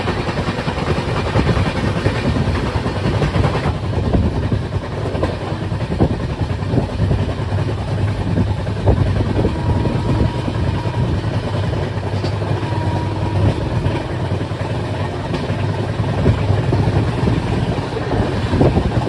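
Moving Indian Railways train: a steady loud rumble of wheels on the track, with scattered clicks and knocks. The hiss in the upper range drops off about four seconds in.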